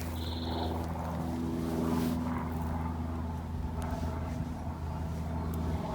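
An engine running steadily, a low even hum with little change in pitch.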